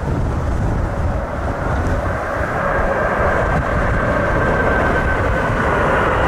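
Jet airliner coming in to land, its engine noise growing louder with a steady high whine, over the rumble of gusty wind on the microphone.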